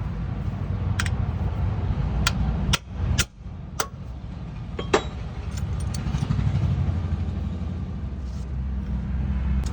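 A vehicle engine running steadily with a low rumble. Several sharp clicks and knocks are heard in the first five seconds, and the sound briefly drops out about three seconds in.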